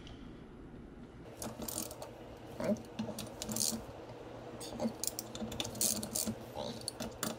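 Hand ratchet clicking in short irregular runs, with light metallic clinks, as crankcase bolts are run down by hand; it starts about a second in.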